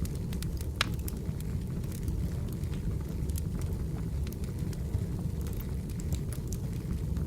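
Wood fire burning: a steady low rumble from the flames with scattered crackles and pops from the firewood, one sharper pop just under a second in.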